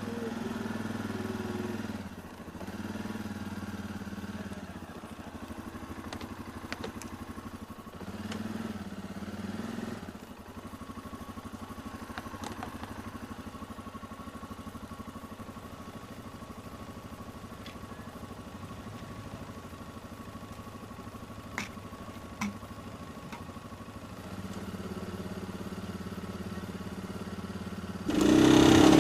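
Off-road vehicle engines idling, swelling now and then, with a couple of short clicks; a much louder engine sound starts suddenly near the end.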